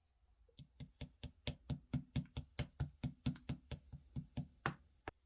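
Green clear slime being pressed and poked by hand, making sharp clicking pops in a fast, even rhythm of about four to five a second, stopping near the end with two last clicks.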